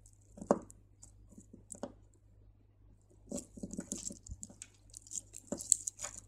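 Small clicks and rustling of crystal beads and beading line being handled: a white bead is added on the right line and the lines are crossed and pulled through. The clicks come scattered, with busier handling about halfway through and again near the end.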